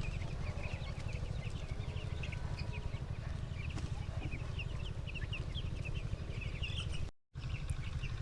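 A flock of 13-day-old broiler chicks peeping: many short, high cheeps overlapping, over a steady low rumble. The sound drops out for a moment about seven seconds in.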